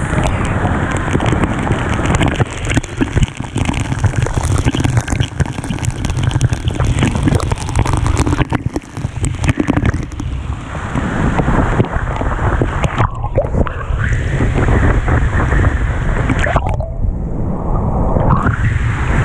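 Steady loud rushing of a waterfall's falling water, with some wind buffeting the microphone.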